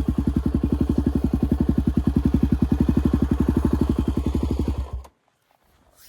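Enduro motorcycle engine idling with a rapid, even pulse, then switched off abruptly about five seconds in.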